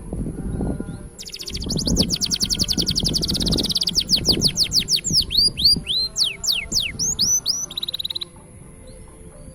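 Green canary singing: a fast trill of rapid downward-sweeping notes starting about a second in, slowing into separate down-slurred and hooked notes, and ending in a short buzzy note near the end.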